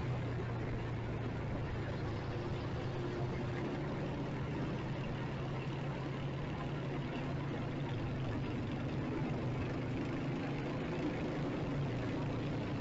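Motorcycle engine idling steadily, an even low hum with no revving.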